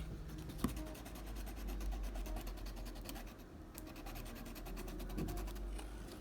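Pencil strokes scratching on drawing paper in quick repeated strokes, with one sharp tap about half a second in.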